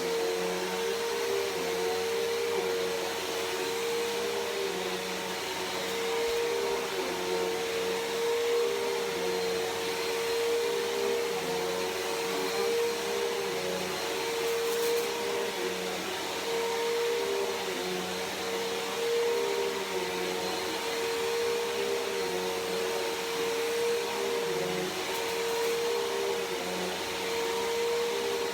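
Bissell PowerForce Helix Turbo upright vacuum cleaner running steadily, its motor giving a constant whine over the rush of air.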